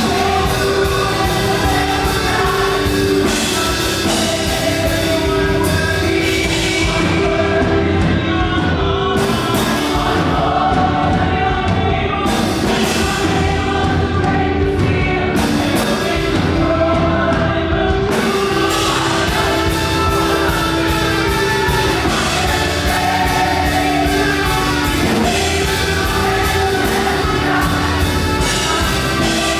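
Loud, up-tempo live gospel praise music: voices singing together over a full band with drums.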